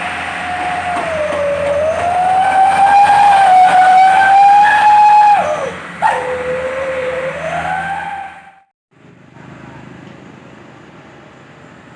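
A truck's 'wolf' exhaust whistle (knalpot serigala) howling loudly: one wavering tone that dips and rises, breaks off with a click about six seconds in, sounds again lower and climbs, then stops near the end, leaving a quieter steady noise.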